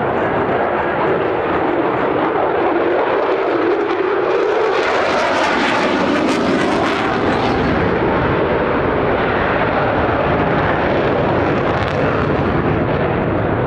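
Jet noise from an F-16 Fighting Falcon's single afterburning turbofan during a low display manoeuvre: a continuous heavy roar. It turns harsher and hissier around the middle as the jet passes closest, with a sweeping, phasing quality, then settles back to a steady roar.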